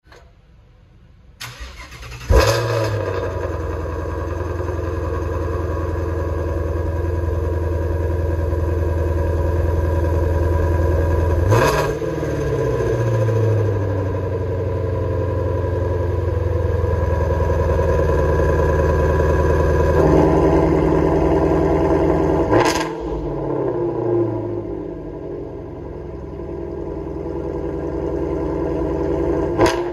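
Ford Shelby GT350R's 5.2-litre flat-plane-crank V8 cold start through the quad exhaust. The starter cranks briefly, the engine catches about two seconds in with a loud flare, then settles into a steady fast cold idle. The idle dips and wavers briefly around twelve and twenty-three seconds in.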